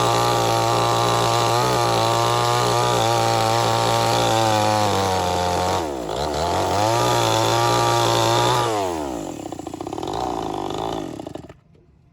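Chainsaw engine running at high speed, dropping briefly about six seconds in and revving back up, then falling to a rough, wavering lower speed before it cuts off near the end.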